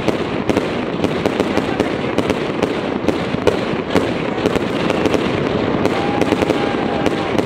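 Aerial fireworks going off in quick succession: many sharp crackling pops at irregular intervals over a dense, continuous noise.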